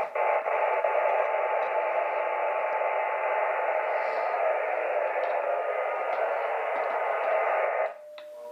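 Radio receiver static: a steady, narrow-band hiss like a transceiver's speaker with no signal, which starts right after a click and cuts off abruptly near the end.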